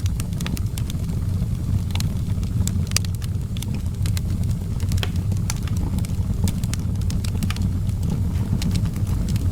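Outdoor wood fire crackling, with frequent irregular sharp pops over a steady low rumble.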